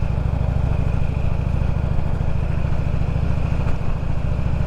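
Motorcycle engine running steadily under way, its exhaust pulses making an even low beat.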